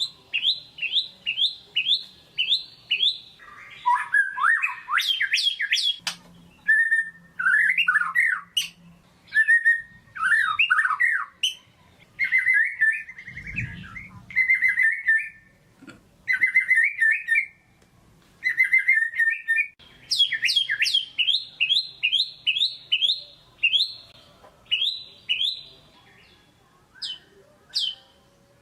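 White-rumped shama (murai batu) singing a loud, varied song: fast runs of sharp down-slurred whistles, about three a second, at the start and again after the middle, with lower warbled and trilled phrases between them.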